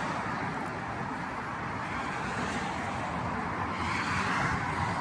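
Steady road traffic noise, swelling slightly about four seconds in.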